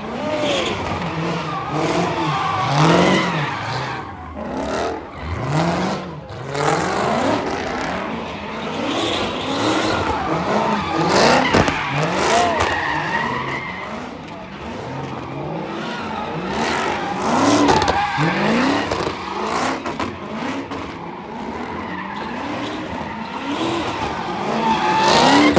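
Car doing donuts: its engine revs up and falls back over and over while the tyres squeal and skid.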